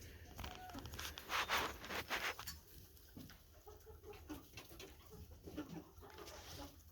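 Young chickens clucking softly, with two short rustling bursts about a second and a half and two seconds in.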